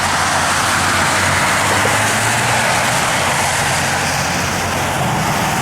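Jet engines of a Southwest Airlines Boeing 737 sounding steadily as it comes in on the runway, over a low steady hum.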